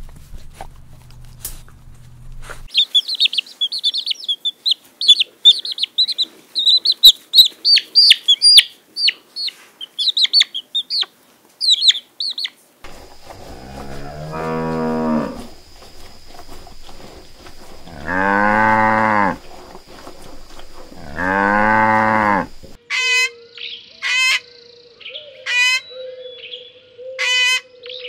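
Rapid high-pitched bird chirping for about ten seconds, then a cow mooing three times, each call long and low, a few seconds apart. Short, sharp high bird calls follow near the end.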